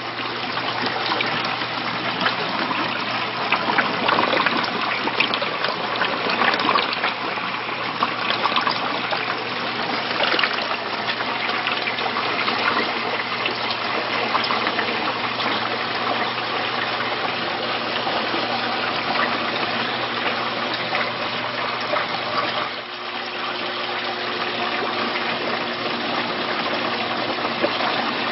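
Water gushing and trickling steadily through a 125-gallon aquarium's overflow and modified Durso standpipe drain, with a steady low hum underneath.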